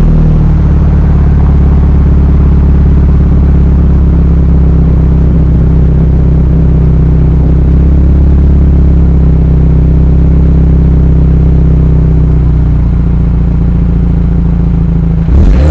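BMW F30 328i's N20 turbocharged four-cylinder idling steadily through a prototype Injen aftermarket exhaust, with a loud, deep drone; the idle eases slightly about thirteen seconds in.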